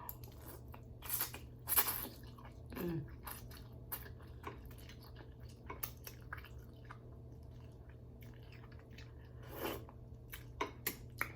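A person eating ramen noodles close to the microphone: chewing with wet mouth sounds and irregular sharp clicks, the loudest in the first two seconds and again near the end.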